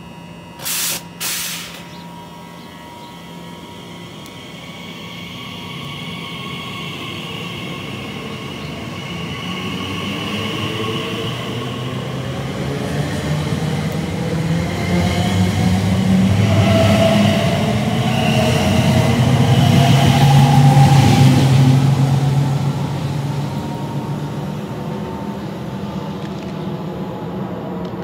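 Elizabeth line Class 345 electric train pulling out of the station, its traction motors whining in gliding tones as it gathers speed. The sound grows to its loudest about two-thirds of the way through, then fades as the train moves away. Two short sharp knocks sound about a second in.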